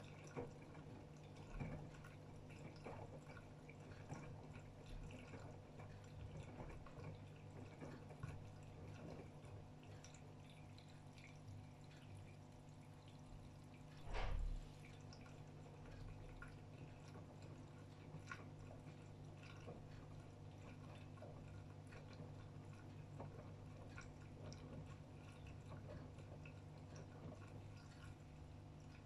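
AEG Öko-Lavamat 76910 washing machine washing: faint water sloshing and dripping inside the drum over a steady low hum, with one louder thud about halfway through.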